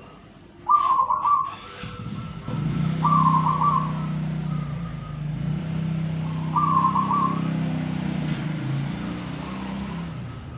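A songbird calling three times in short, chattering bursts, the first about a second in with a couple of knocks, the others about 3 and 7 seconds in. From about two and a half seconds in, a motor vehicle's engine runs underneath as a low steady hum.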